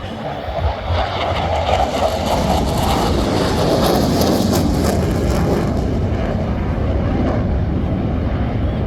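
T-50B jet trainers flying past, their jet engine noise swelling and loudest about four seconds in, then holding steady.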